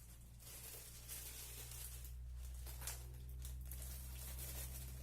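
Plastic bags rustling and crinkling as groceries are handled, over a steady low hum.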